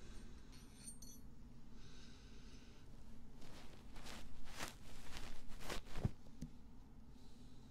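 Soft, close-up scratching and rustling strokes against a binaural microphone, as in ASMR ear cleaning. The strokes are irregular and grow busier in the middle.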